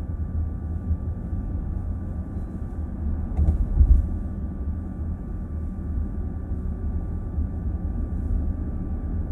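Road and tyre noise heard inside a moving car's cabin: a steady low rumble, with one brief louder thump about three and a half seconds in.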